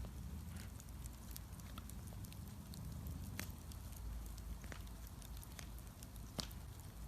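Bonfire crackling, with scattered sharp pops and one louder pop near the end, over a steady low rumble.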